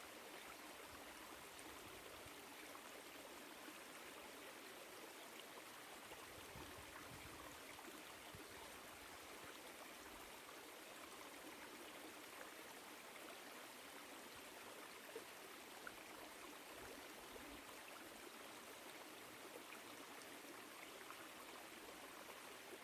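Woodland stream flowing over rocks: a faint, steady rush of water.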